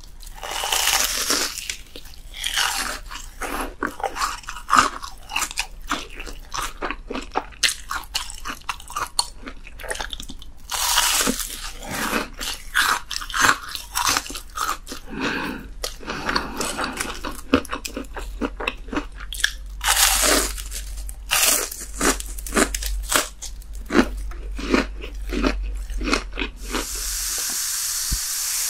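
Close-miked crunching and chewing of deep-fried breaded cutlet and fried shrimp, many crisp crunches in quick succession with wet chewing between bites. Near the end a steady hiss takes over.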